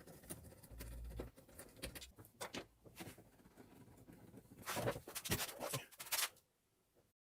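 Plastic dashboard trim being handled and pried loose: scattered clicks, knocks and rubbing, with a quick run of knocks a few seconds in. The sound stops suddenly near the end.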